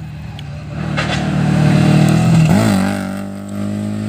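Rally car engine at full throttle as it comes closer, growing louder to a peak about two seconds in. Its pitch wavers briefly about two and a half seconds in, then holds steady.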